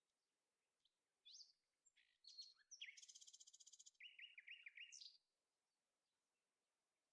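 A small songbird singing one quick, faint phrase of high whistled notes, with a fast buzzy trill in the middle and a string of short repeated notes near its end.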